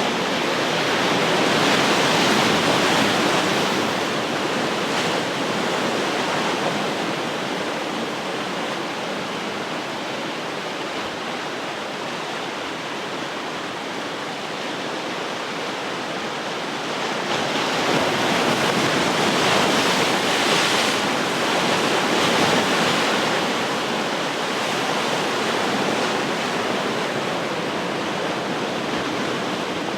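Ocean surf: a continuous wash of breaking waves, swelling louder twice, a few seconds in and again in the second half, then easing back.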